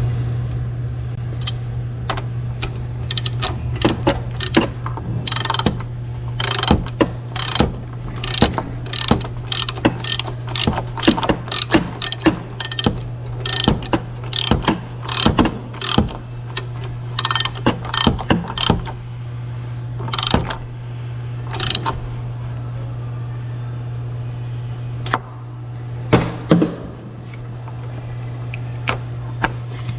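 Ratchet wrench clicking in runs of quick strokes while turning a spark plug on a Yamaha G29 golf cart's engine, over a steady low hum. The clicking is densest for the first two-thirds and thins to a few strokes near the end.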